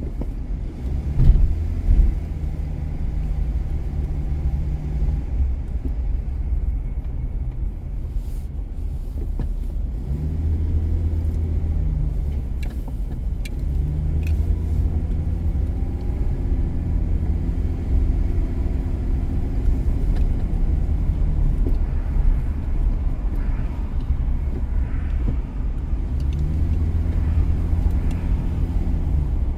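A car driving on city streets makes a continuous low road rumble. A steady low hum comes and goes several times, and there are two short knocks about a second in.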